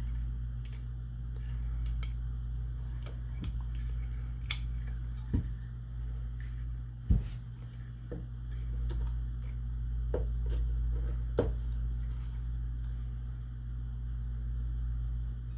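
Scattered light clicks and knocks of shotgun parts being handled and fitted together during reassembly, over a steady low hum.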